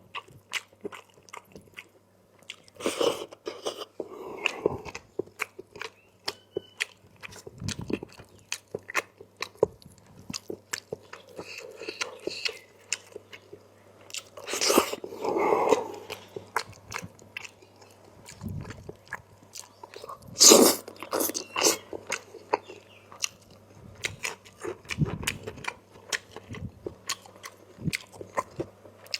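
Close-up eating sounds of a person chewing chicken curry: many quick wet clicks and smacks of the mouth, with a few louder, longer noises about three, fifteen and twenty seconds in.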